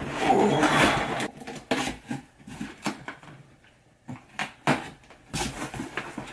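A large cardboard shipping box being opened by hand: a loud stretch of tearing and scraping in the first second or so, then scattered rustles and knocks of cardboard and contents, with a sharp knock about five seconds in.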